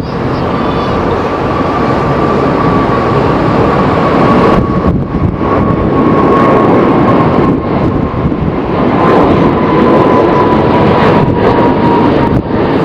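Jet airliner's engines, a loud steady rush with a thin high whine that slowly falls in pitch, mixed with wind buffeting the microphone.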